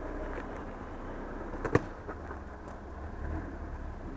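Off-road vehicle running with a steady low rumble, and one sharp knock a little under two seconds in.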